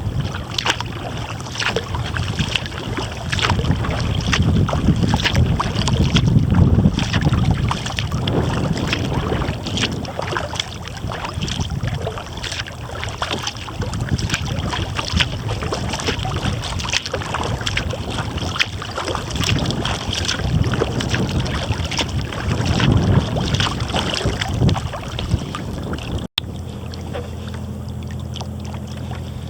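Kayak paddle strokes and water splashing and dripping, with gusty wind buffeting the camera microphone through its furry windscreen.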